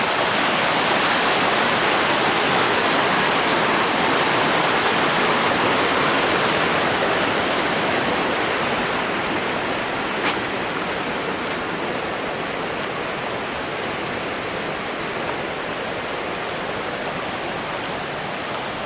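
Rain-swollen creek in flood, muddy, fast-moving water rushing steadily, easing slightly in loudness partway through, with a single faint click about halfway.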